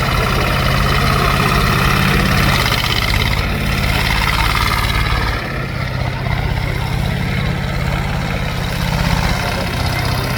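Tractor engine running steadily, its note shifting about halfway through.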